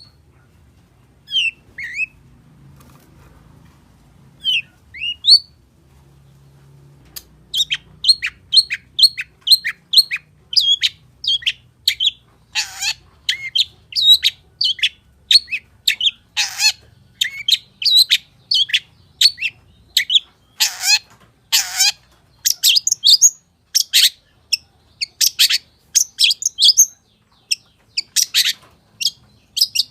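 Long-tailed shrike (cendet) singing: a few scattered chirps, then from about seven seconds a fast, continuous run of short high chirps and whistles, about two a second, with a few harsher, lower rasping notes mixed in.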